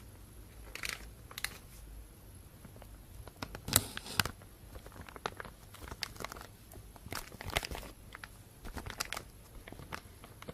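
Thin plastic bag crinkling and rustling close to the microphone in irregular crackles, the loudest about four seconds in.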